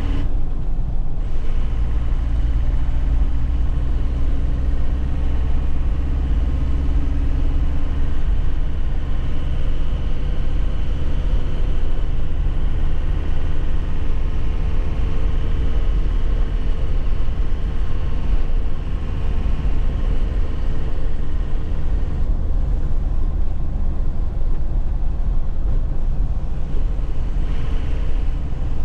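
2001 Nissan Cabstar light truck driving on a rough road: steady engine running with rumbling road and tyre noise.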